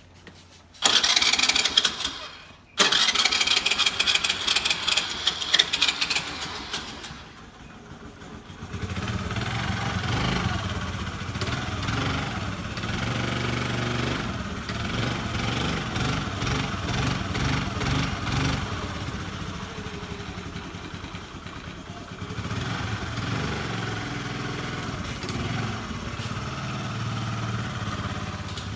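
Scooter engine, hard to start after sitting unused, being cranked in two long bursts with a high whine. About eight seconds in it catches and keeps running at idle.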